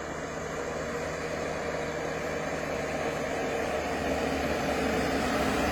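A motor vehicle's engine running with a steady hum and road noise that grows gradually louder.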